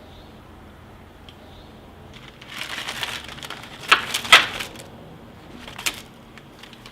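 Crinkling and rustling, like paper or wrappers being handled, with a few sharp clicks, two close together about four seconds in and one more near six seconds.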